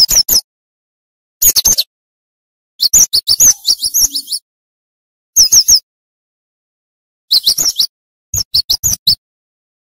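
Cinereous tit (gelatik batu) singing in about six short, rapid bursts of high chirping notes, each burst under a second long, with silent gaps between them.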